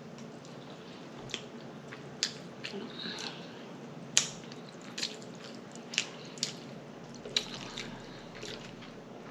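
Close-up mouth sounds of eating: wet lip smacks and chewing clicks coming irregularly, about one a second, over a low steady hiss.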